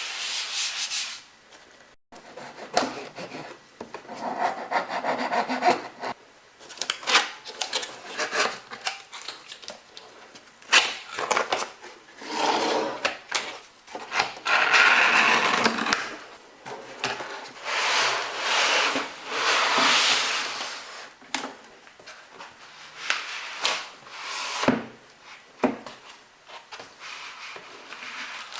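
Cardboard and plastic packaging of a laptop box being handled: repeated scraping and sliding swishes of a second or two each, broken by sharp clicks and knocks.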